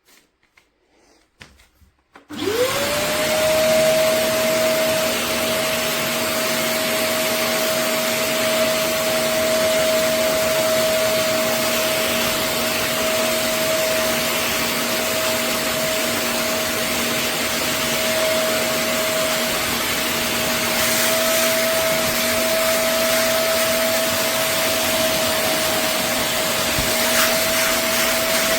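Vacmaster SCA0801 carpet and upholstery spot cleaner switched on about two seconds in: its suction motor spins up quickly to a steady whine and runs on with a constant rush of air. A few faint knocks come just before it starts.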